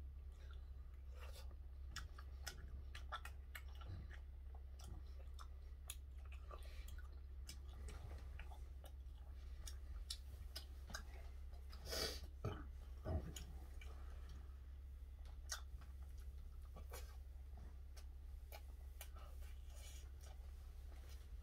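A person chewing food with small clicks and smacks scattered throughout, and a louder cluster of them about twelve seconds in, over a steady low hum.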